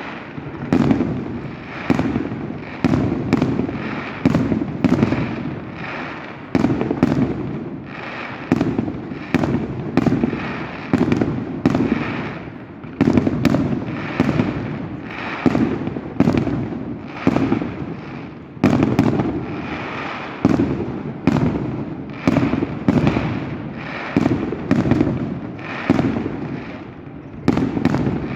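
Fireworks display: aerial shells bursting in quick succession, one or two loud bangs a second, each trailing off into a rumble, with no let-up.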